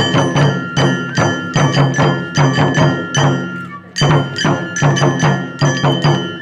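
Japanese folk festival music for a kenbai dance: drum and ringing metal percussion struck in a quick, steady rhythm, with a brief break a little past halfway.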